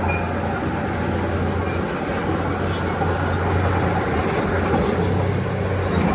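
Diesel engine of a Komatsu D31P crawler bulldozer running steadily under load, with a constant low drone and a noisy clatter over it, and a few faint short high squeaks.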